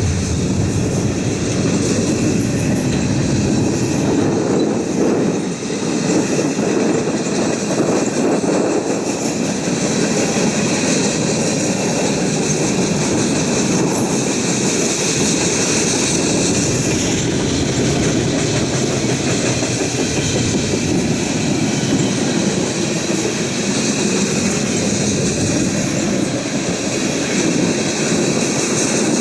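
A freight train of container and goods wagons rolling past at steady speed, its wheels clacking over the rail joints over a continuous rumble, with some thin, high wheel squeal.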